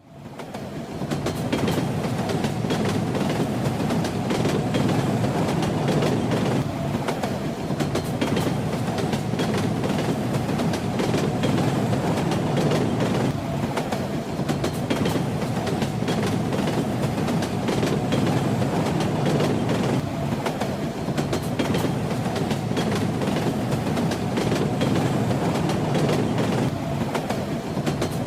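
Moving train: a steady low rumble with the clickety-clack of wheels rattling over the rails. It drops out for a moment at the very start and swells back within a second.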